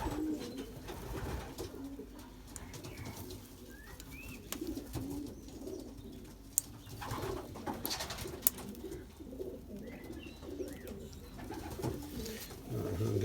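Racing pigeons cooing steadily in the loft, a low continuous murmur, with a few faint high chirps and two sharp clicks about midway.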